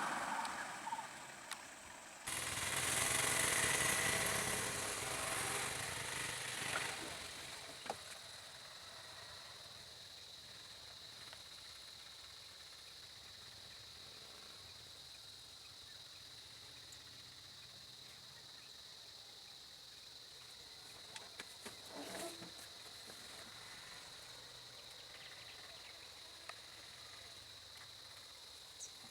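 A motor vehicle going by during the first several seconds and fading away, then quiet roadside ambience with a steady high-pitched insect drone and a few faint knocks.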